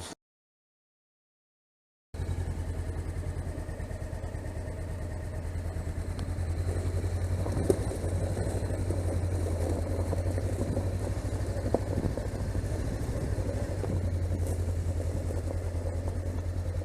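Silence for about two seconds, then a Honda CB500X's parallel-twin engine comes in abruptly and runs steadily with a low, even pulse.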